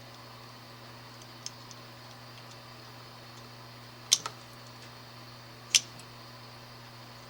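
Sharp clicks of hand tools working on an electrical cord as its wire insulation is stripped: a faint click about a second and a half in, a loud double click around four seconds, and a single loud click near six seconds, over a steady low hum.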